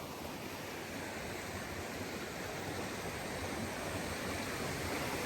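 Steady rushing of a waterfall and its falling water, growing slowly louder.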